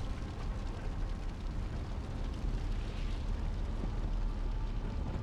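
Steady low rumble of a vehicle driving, heard from inside the cab, with road and engine noise.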